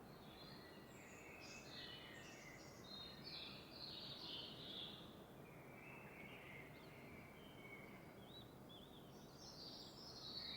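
Faint dawn chorus of several small songbirds, chirping and twittering over a steady soft background hiss.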